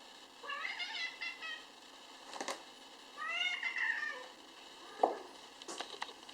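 Kittens meowing: two high-pitched calls, the first broken into short pieces, the second rising and falling. A few sharp clicks and knocks, the loudest about five seconds in.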